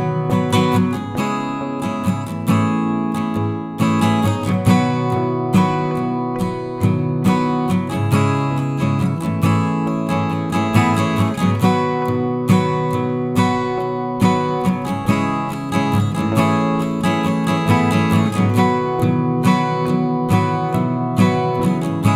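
Background music: strummed acoustic guitar playing steadily, with no vocals.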